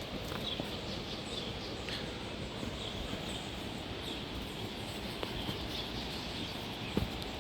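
Forest ambience: a steady background hiss with birds chirping, short high calls repeating throughout, and a couple of soft knocks from footfalls, one near the end.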